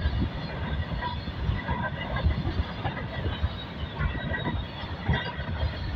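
Freight train of empty flat wagons passing close by: steel wheels rumbling on the rails with irregular clattering knocks.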